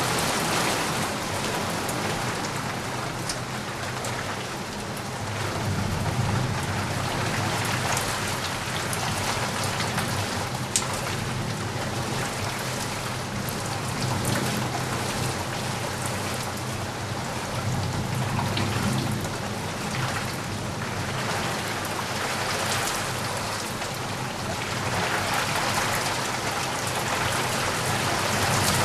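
Steady rain falling hard on a surface, with low rolls of distant thunder swelling and fading a few times. One sharp drop-like tick stands out about eleven seconds in.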